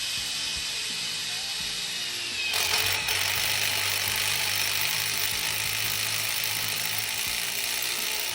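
Power drill running at full speed, drilling into metal with a step tip drill bit. About two and a half seconds in the sound grows louder and harsher, then runs steadily until it stops.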